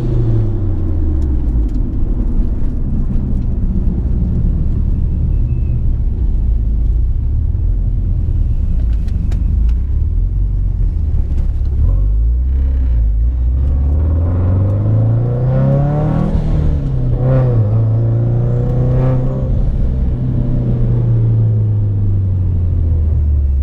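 Turbocharged car engine under way: its pitch falls and holds low, then climbs steadily for several seconds as it revs up. It drops sharply from the peak, holds an even note, and winds down near the end.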